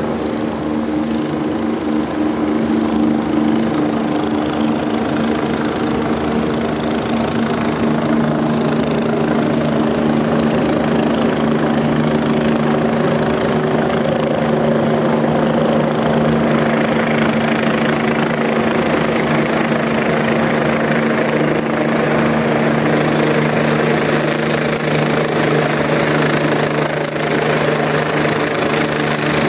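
Air ambulance helicopter running steadily, its rotor and engine noise carrying a constant hum of several low tones.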